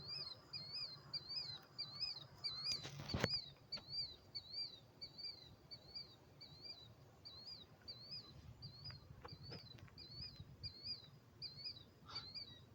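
Killdeer calling, a short high note repeated steadily about twice a second. There is a sharp click about three seconds in.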